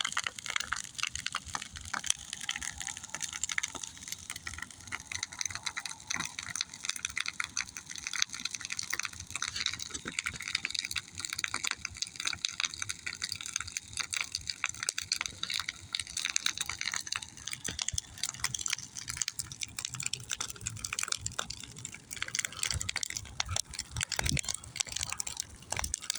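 Large bonfire burning, with a steady rushing noise and dense, continuous crackling and popping.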